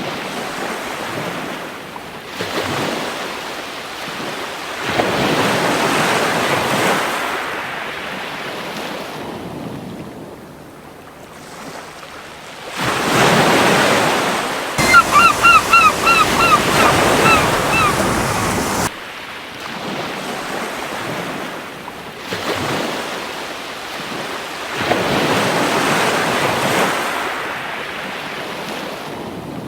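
Waves breaking and washing up a beach in slow surges every few seconds. About halfway through, a seagull calls rapidly, about eight short cries in a row over a few seconds.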